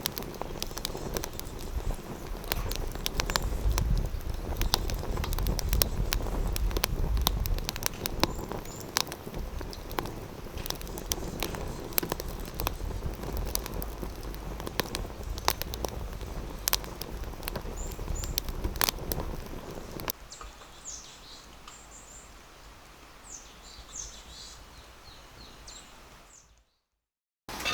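Irregular clicking and rustling over a low rumble, then, after a cut about twenty seconds in, small birds chirping in short, high, upward-sweeping calls in a quiet forest.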